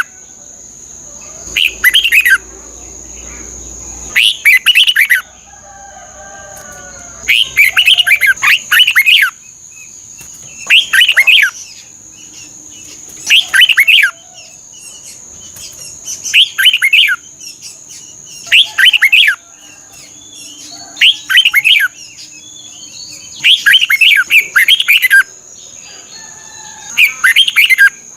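Red-whiskered bulbul singing: short, loud, repeated song phrases, about one every two to three seconds, over a steady high-pitched whine.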